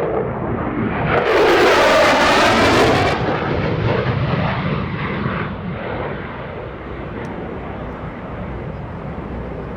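F-16C Fighting Falcon's General Electric F110 turbofan on a fast pass: the jet noise swells to a loud peak with a sweeping, phasing tone about one to three seconds in, then fades to a lingering rumble.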